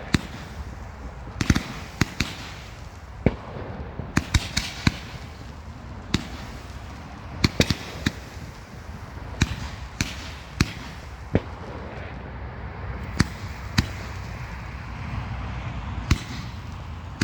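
Fireworks going off: a string of sharp bangs at irregular intervals, some in quick pairs, with a brief burst of crackling about four seconds in.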